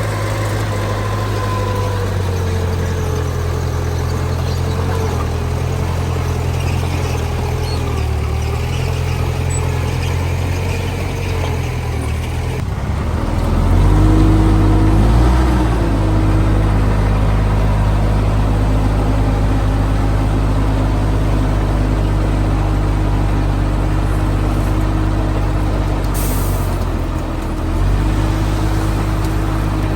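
Heavy diesel earthmoving machinery running steadily. The engine note changes and grows louder about halfway through, and a brief hiss comes near the end.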